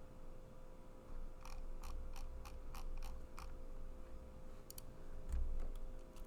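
Keystrokes on a computer keyboard: a run of about seven sharp clicks at an even pace a little over a second in, then a few scattered clicks.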